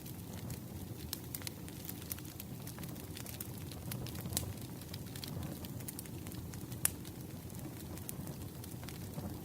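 Campfire crackling: a steady low rush of burning wood with frequent small snaps and pops, two sharper pops about four and seven seconds in.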